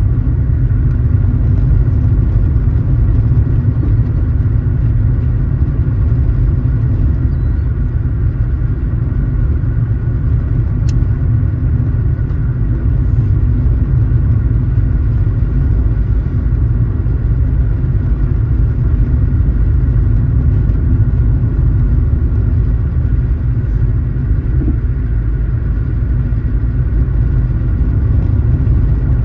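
A car on the move: steady low road and engine rumble at an even speed, with a single faint click about eleven seconds in.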